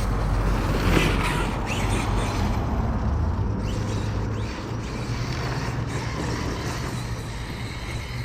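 Arrma Kraton 8S 1/5-scale RC truck running on 8S batteries, its brushless electric motor and drivetrain whining up and down as it accelerates and slows, loudest about a second in, over a steady low rumble.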